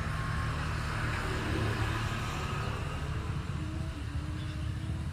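A steady low mechanical rumble with an even hiss over it.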